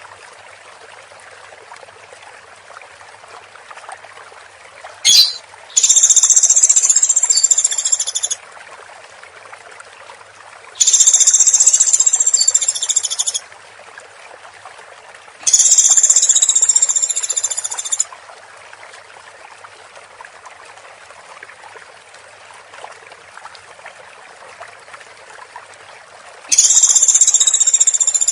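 Woodpecker giving rapid, high trilling calls in bouts of about two and a half seconds, four times, with a short sharp note just before the first bout and steady hiss between them.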